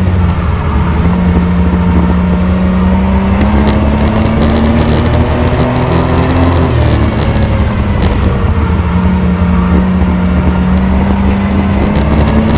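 Race truck engine running hard on the track, its pitch climbing steadily, dropping sharply about seven seconds in as the throttle comes off, then climbing again.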